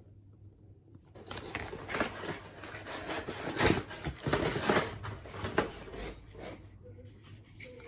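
Rustling, scraping and knocking of packaging and plastic hair dryer attachments being handled. The irregular scrapes and taps start about a second in and die down near the end.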